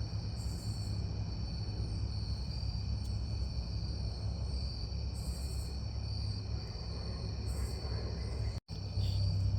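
Steady chorus of crickets chirring over a constant low rumble, with the sound cutting out for an instant near the end.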